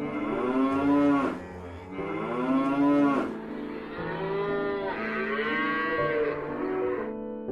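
Cattle mooing: three long, drawn-out moos that rise and fall in pitch, the last the longest.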